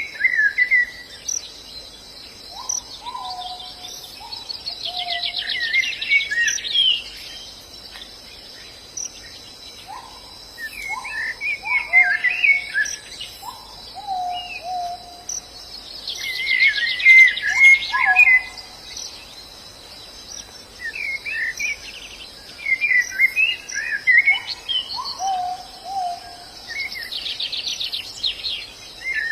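Pleci (white-eye) birds twittering in quick bursts of high chirps every few seconds, with lower whistled notes that fall in pitch between them, over a steady high insect drone.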